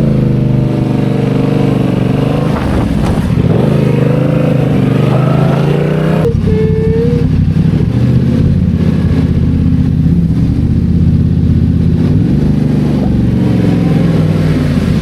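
Yamaha MT-07's parallel-twin engine running while riding, its pitch rising and falling with the throttle. About six seconds in the sound changes suddenly, then runs at a steadier pitch.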